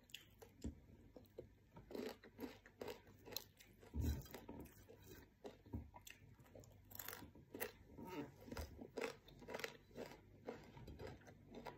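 A person chewing crispy fried anchovies and fried rice close to the microphone: faint, irregular crunches and small mouth sounds.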